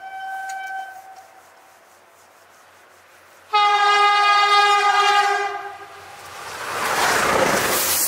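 Stadler FLIRT train horns: a high horn note dies away about a second in, then after a pause a loud two-note horn blast sounds for about two seconds. A rushing hiss from the passing train builds toward the end.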